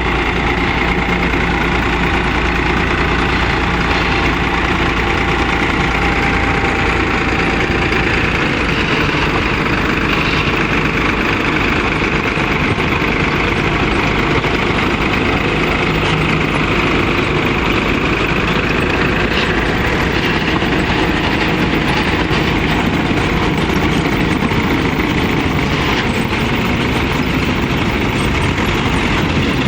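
Swaraj 963 FE tractor's diesel engine running steadily while working a front loader on soil.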